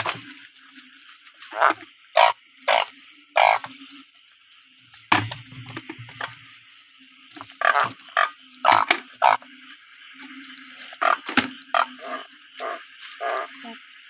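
Frogs and toads calling in a rain-night chorus. About a dozen short, loud croaks come in clusters over a steady background of more distant calling.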